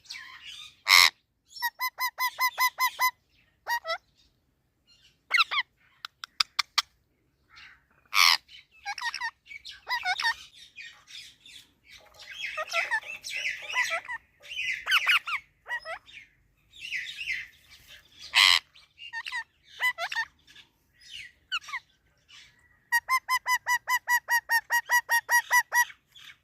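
Indian ringneck parakeet calling: fast runs of repeated short notes, about five a second, near the start and again near the end, with single loud screeches between them and a stretch of irregular warbling chatter in the middle.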